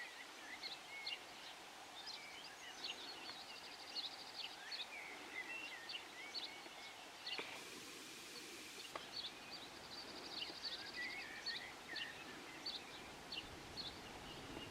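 Faint birdsong from several small birds: scattered chirps and short whistled phrases, with a fast trill of repeated high notes twice.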